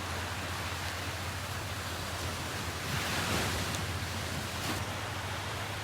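Ocean surf washing up on a beach as a steady hiss, with a wave breaking louder about three seconds in, over a low steady rumble.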